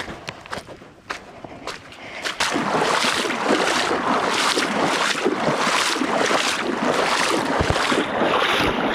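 Footsteps, then from about two seconds in, a loud steady sloshing and splashing of feet wading through shallow estuary water at roughly two strides a second.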